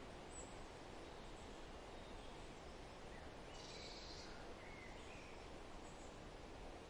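Faint forest ambience: a steady low background hiss, with a few brief, high bird chirps between about three and five seconds in.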